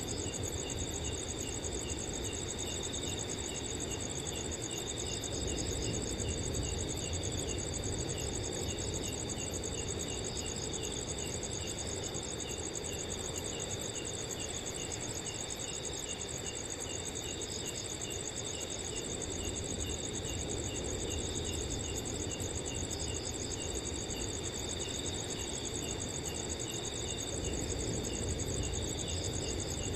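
Several crickets chirping together at night: a continuous high trill layered with rows of short repeated chirps, over a steady low rush of wind.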